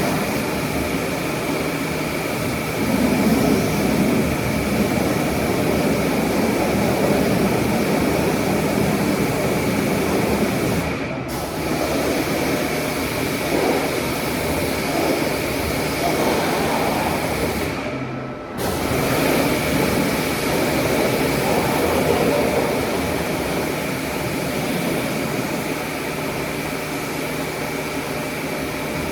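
Car-wash machinery running: a steady loud rush with a thin high whine over it, cutting out for a moment twice.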